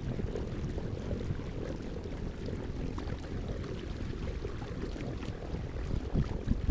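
Water washing around a kayak mixed with wind on the microphone: a steady low rumble with faint scattered ticks and splashes.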